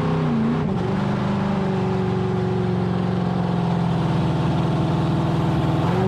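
Jet boat's 582 cubic-inch big block Chevy V8 running hard at high revs under load. The pitch dips briefly about half a second in, then holds high and steady, sagging slightly, before dipping again at the very end.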